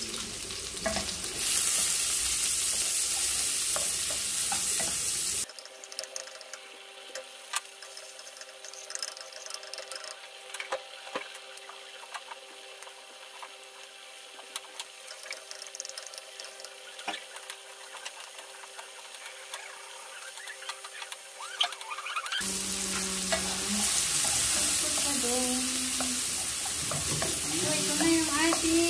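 Chopped onion, garlic and chili sizzling in hot oil in a frying pan as they are stirred with a wooden spatula. The sizzle is loud for about the first five seconds, drops to a much quieter stretch of scattered clicks and scrapes, and comes back loud about twenty-two seconds in.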